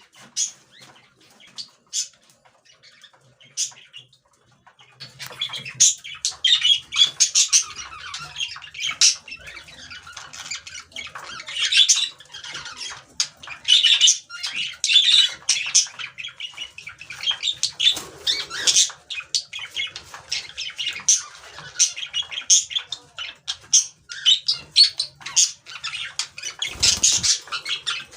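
Caged pet birds chirping and squawking. There are a few separate calls at first, then a dense, busy chatter from about five seconds in.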